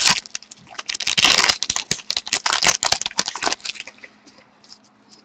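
Wrapper of a hockey card pack crinkling and tearing as it is opened, a rapid run of small crackles and clicks that thins to a few light clicks near the end as the cards are handled.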